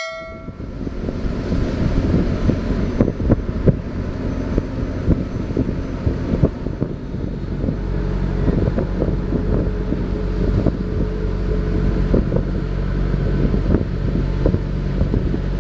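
Ship's engine-room machinery running: a loud, steady, deep drone with many small clicks and knocks in it.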